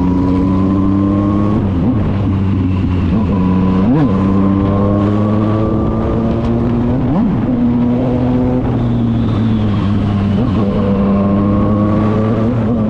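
Yamaha motorcycle engine running under way. Its pitch climbs slowly and drops back several times as it shifts up through the gears.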